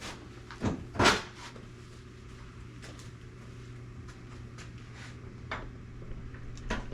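Riding mower's plastic hood knocking and clattering as it is unclipped and lifted off, with a sharp knock about a second in, followed by a few light clicks over a steady low hum.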